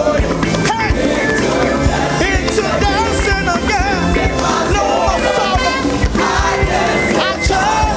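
Gospel choir and lead voice singing over a live band with drums, the singing held in long wavering notes.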